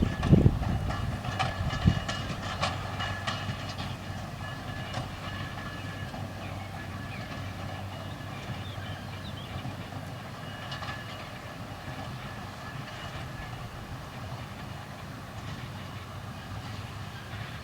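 A clattering mechanical rumble with knocks, loud for the first couple of seconds, then easing into a steady, quieter rumble with faint high steady tones and occasional clicks.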